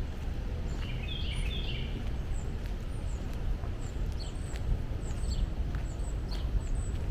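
Small birds chirping in woodland: a quick twittering phrase about a second in, then thin high chirps repeated every second or so, over a steady low background rumble.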